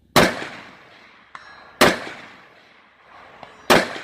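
Three rifle shots from an AR-style precision rifle with a 20-inch barrel, about two seconds apart, each followed by a rolling echo. A faint metallic ring a second or so after the first shot is a bullet striking a distant steel target.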